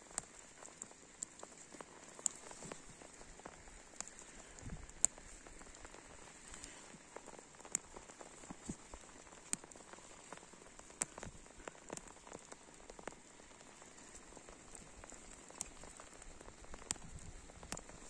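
Light rain falling, a faint steady hiss with irregular sharp ticks of single drops landing close by.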